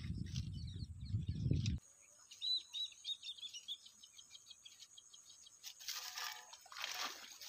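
A small bird chirping a quick run of short, high notes about two and a half seconds in. Before it, a low rumble stops abruptly just under two seconds in, and near the end there is a brief rush of noise.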